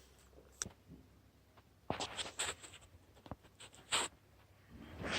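Quiet room with a few faint, scattered clicks and short rustles of handling.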